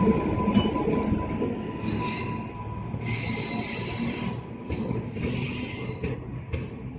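Indian Railways passenger coaches rolling past close by: a steady rumble of steel wheels on the rails, with high-pitched wheel squeal coming and going from about two seconds in. The rumble fades slightly as the train moves on.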